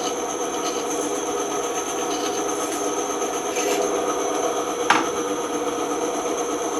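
Band saw running with its blade cutting through wood, a steady mechanical hum with a rasping cut. A single sharp click comes about five seconds in.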